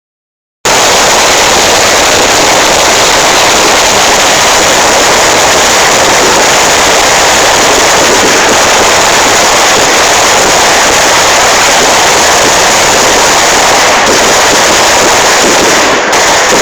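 A long string of firecrackers going off as one continuous, very loud, dense crackle, starting suddenly.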